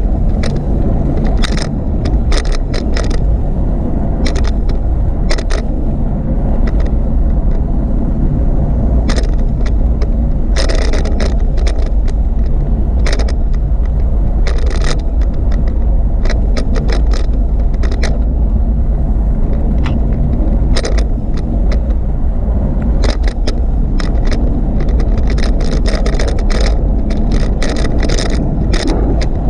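Riding noise from a bicycle on a paved cycle path: a steady low rumble of wind and road on the microphone, with frequent short rattles and clicks.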